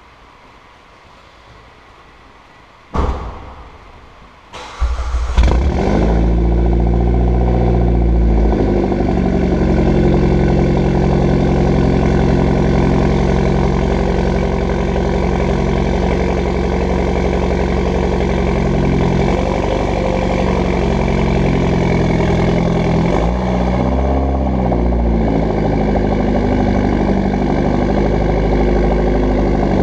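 Mitsubishi Lancer Evolution X's turbocharged 2.0-litre four-cylinder engine, breathing through an AMS widemouth downpipe, cat and twin-tip catback exhaust, starting about five seconds in after a brief noise a couple of seconds earlier. It then settles into a steady idle, with a few small rises and falls in pitch later on.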